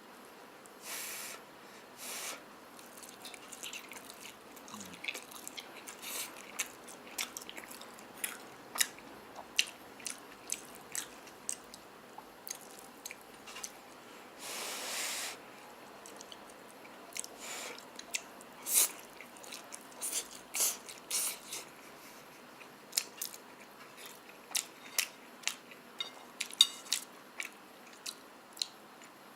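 A person chewing mouthfuls of shrimp pad thai noodles, with many sharp, wet mouth clicks and a few longer hissy sounds, the longest about halfway through.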